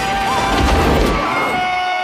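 Action-film soundtrack: a music score holding a long sustained note, with a loud low rumble from about half a second in that fades by a second and a half.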